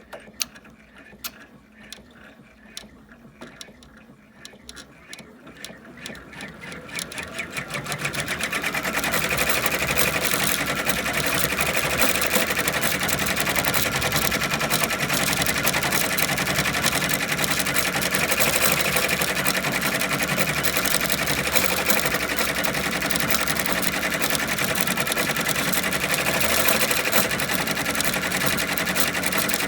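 Brother PR655 six-needle embroidery machine stitching: separate clicks speed up over the first eight seconds or so, then it runs steadily at full speed. This is the running noise that the owner considers a problem.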